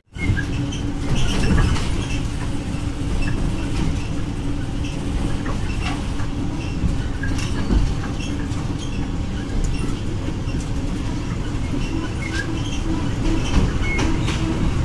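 PNR commuter train carriage running along the track, heard from inside: a steady low rumble with scattered clicks and knocks from the wheels and carriage.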